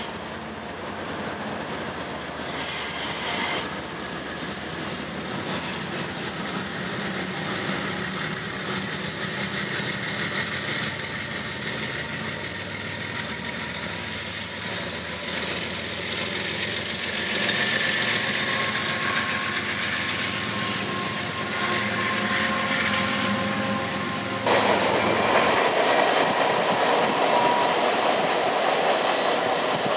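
A freight train passing close by: BNSF diesel locomotives running as they pass beneath, then the rattle and clatter of the long string of cars, with a thin high squeal of wheels on the curve. The sound steps up suddenly louder near the end.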